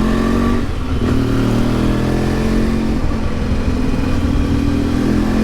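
Yamaha XTZ 750 Super Ténéré's parallel-twin engine running under way, its note changing briefly about a second in and again around three seconds in.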